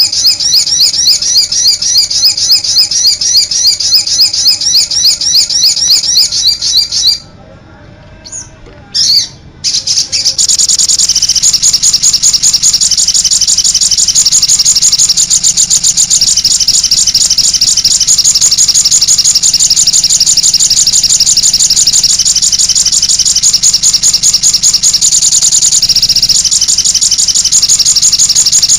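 Recorded songbird song from a training compilation (masteran): a fast series of high chirps, several a second, breaks off about seven seconds in. After a short pause with a few faint calls, a different, denser high trill takes over and runs on without a break.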